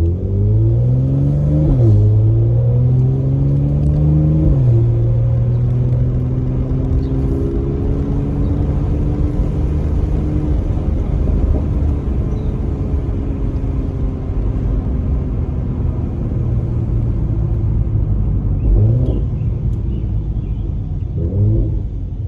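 Mercedes-AMG C43's twin-turbo V6 through its factory performance exhaust, accelerating hard: the pitch climbs and drops sharply at two upshifts, about two and four and a half seconds in, then the engine settles into a steady cruise. Two brief rev spikes come near the end.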